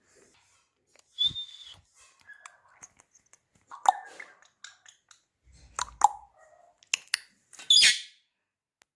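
Indian ringneck parrot giving a few short whistles and chirps, then a louder, harsh screech near the end.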